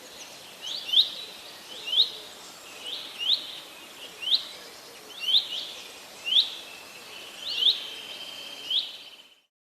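A small bird chirping: short, sharp, rising chirps about once a second, some in quick pairs, over a faint steady hiss. The sound cuts off abruptly near the end.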